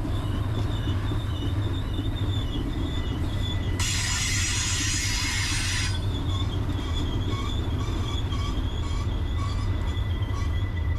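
Freight train rolling past: a steady low rumble with steel wheels squealing against the rail in a repeating pattern. About four seconds in, a two-second burst of hiss sounds over it.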